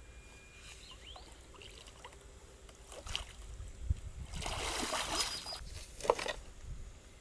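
Water sloshing and splashing, with one longer splash about halfway through and a sharp knock soon after.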